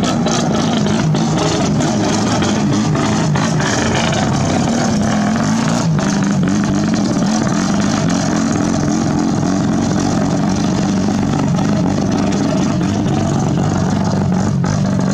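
Mazda rotary engine running loudly at steady revs, its exhaust note holding one pitch.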